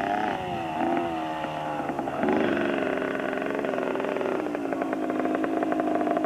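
Small motorcycle engine running as the bike is ridden. Its pitch rises and falls with the throttle and steps up about two seconds in, then holds steady through the second half.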